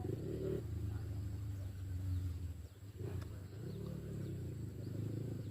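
Trail motorcycle engine running at low revs, a steady low rumble that drops briefly about two and a half seconds in.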